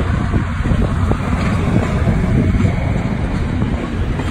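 Passenger coaches rolling past close by: a steady rumble of steel wheels on the rails.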